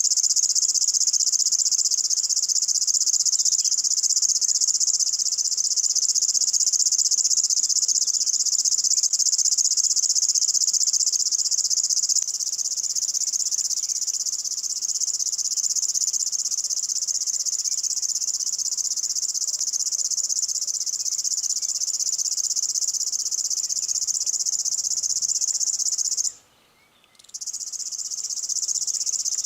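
River warbler (Locustella fluviatilis) singing: a continuous high, insect-like reeling chirp, with a break of about a second near the end.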